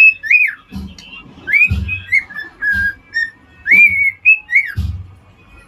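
Cockatiel whistling a song: clear whistled notes that slide up, hold and fall, in short phrases with pauses between them. A few low thumps come in among the notes.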